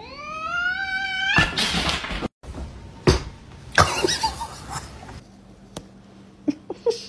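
A cat's long meow rising in pitch, followed by several loud bursts of noise and a few knocks.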